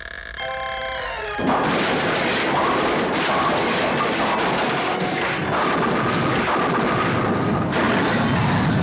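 Cartoon dynamite explosion sound effect: after a short run of orchestral music, a sudden loud blast about a second and a half in turns into a long, continuous rumbling explosion noise, with the music still playing underneath.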